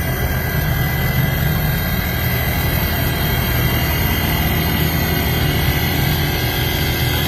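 Inverter air conditioner unit running with a steady low hum and a faint, even high-pitched whine over it.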